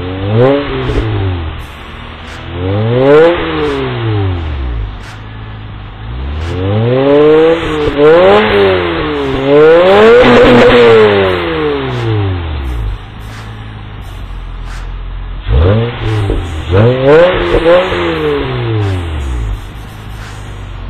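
2001 Acura TL's V6 with XS-Power headers and Comptech axle-back mufflers revving repeatedly from idle, each rev rising and falling back, with a quick run of short blips near the end.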